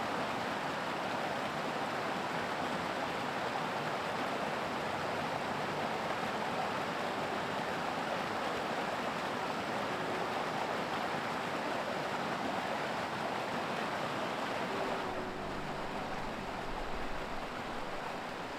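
Mountain stream rushing steadily over rocks. About fifteen seconds in the water sound turns duller and a low rumble joins it.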